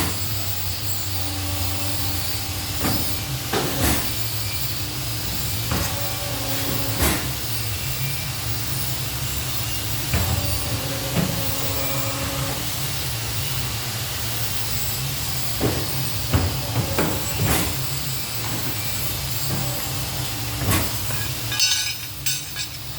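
CNC pipe-bending machine running: a steady low hum with a constant hiss, short motor whines lasting a second or two, and scattered sharp clanks and knocks throughout.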